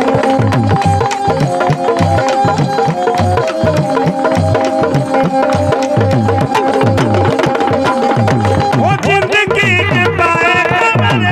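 Instrumental interlude of a Punjabi devotional bhajan: a fast hand-drum beat in tabla style under long held chords. About nine seconds in, a high wavering melody line comes in over them.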